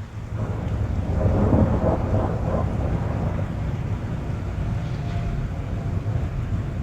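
A rumble of thunder swells sharply about a second in and rolls on as a steady low rumble, over rain drumming on a car roof heard from inside the cabin.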